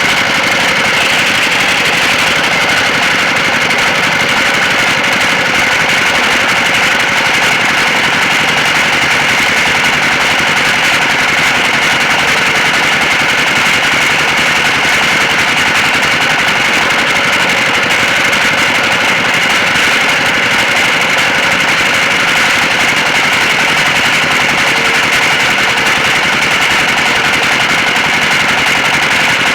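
Sawmill machinery running with a steady, unbroken mechanical drone that holds level throughout.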